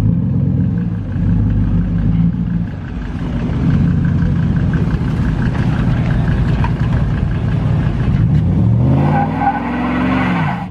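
Truck engine held at high revs during a burnout attempt, with one rise and fall in engine pitch near the end. Only one wheel spins: the two-wheel burnout fails.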